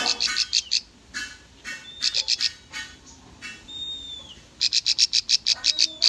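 Bar-winged prinia (ciblek) singing: bursts of fast, sharp chirps, about ten a second, with a few thin whistled notes between them, one sliding downward.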